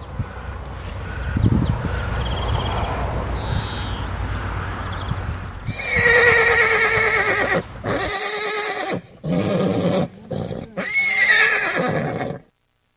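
Horses whinnying: a long, wavering neigh about halfway through and another near the end, after several seconds of lower, rough noise. The sound cuts off suddenly shortly before the end.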